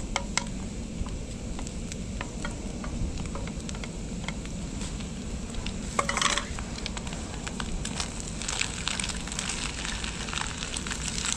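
Eggs and chopped scallions sizzling in a small camping pot on a portable gas stove, with small clicks of chopsticks against the pot as they are stirred. A brief clatter about six seconds in, and the sizzle grows louder near the end.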